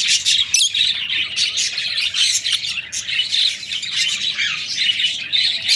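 A group of pet parrots calling all at once: a dense, unbroken chatter of overlapping high-pitched calls.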